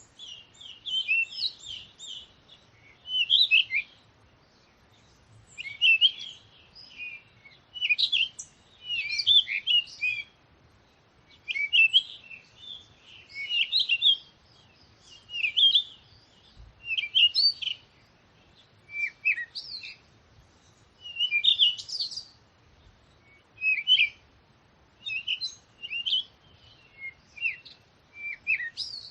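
Songbirds singing: short, quick warbling phrases, high-pitched, repeating about every two seconds with brief quiet gaps between.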